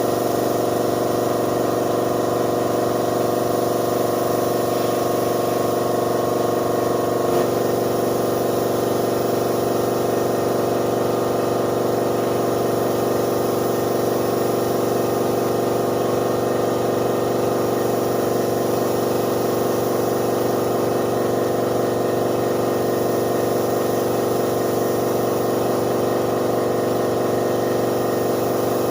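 Air compressor motor running steadily, a constant hum over a hiss, with one small shift in its tone about seven seconds in.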